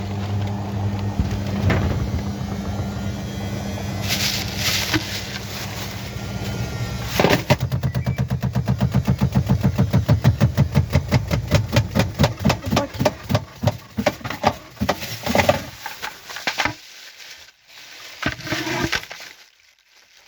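Washing machine running with a steady motor hum, then a loud rapid knocking of about four to five knocks a second that sets in about seven seconds in, as if the drum is banging at speed. The knocking slows and dies away near the end.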